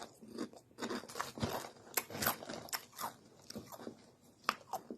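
Close-up crunching of Doritos tortilla chips being chewed, a quick irregular run of crisp crackles several times a second.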